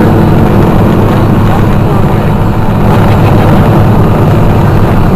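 Motorcycles running: a loud, steady low rumble.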